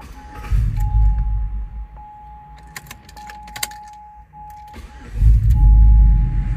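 The Tahoe's 5.3 L V8 surges twice in low rumbling bursts, briefly about half a second in and longer from about five seconds in, stumbling in a way the mechanic takes for fuel starvation. A thin steady tone with short gaps sounds under it.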